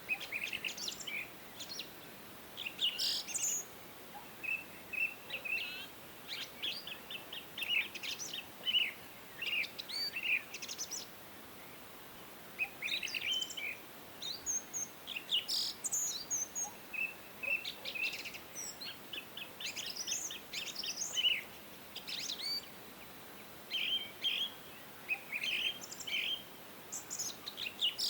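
Several songbirds singing and chirping: short high trills and chirps in bursts every second or two, over a faint steady background hiss.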